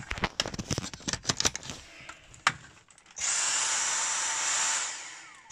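A series of sharp clicks and knocks, then a Dyson V6 cordless vacuum's motor starts about three seconds in, running with a loud high whine and hiss, and winds down with a falling whine near the end.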